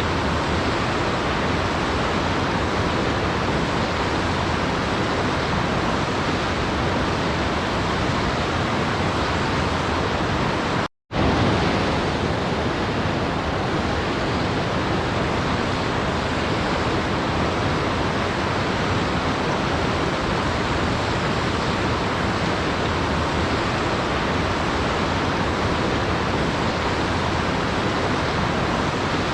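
A waterfall's steady rushing noise, even and unchanging, with one sudden break about eleven seconds in where it cuts out for a fraction of a second before resuming, as at a loop splice.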